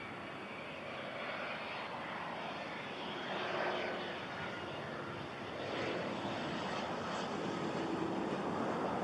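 Cessna 680A Citation Latitude business jet on arrival: the whoosh of its twin turbofan engines, growing slowly louder as it approaches.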